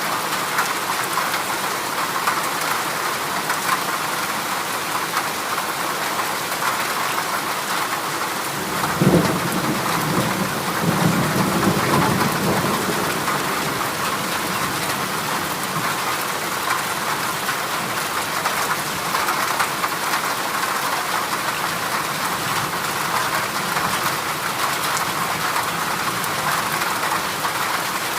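Heavy rain pattering steadily on a corrugated galvanized-iron roof. About nine seconds in, a roll of thunder starts suddenly and rumbles for about four seconds.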